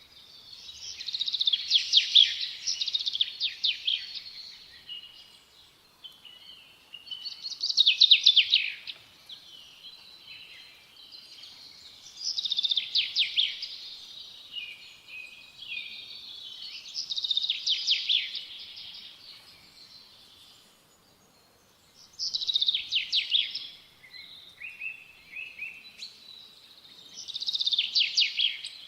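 A small songbird singing, repeating a short, high song phrase of rapid trilled notes about every five seconds, six phrases in all.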